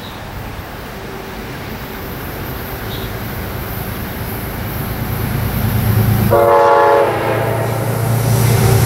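Commuter train running past close by, its low rumble building steadily, with one short multi-tone horn blast about six seconds in.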